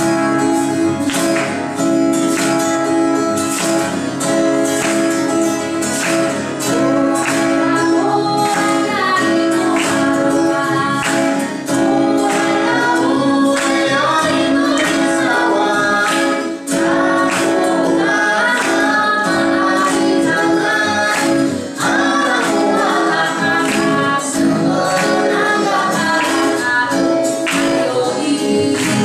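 A woman singing a lively traditional Puyuma song, accompanied by strummed acoustic guitar.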